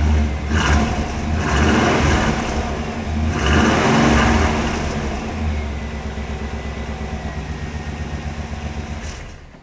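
1998 Chevrolet C/K 1500 pickup's engine running through its newly installed exhaust system. It is revved three times in the first few seconds, then settles to a steady idle, and the sound cuts off near the end.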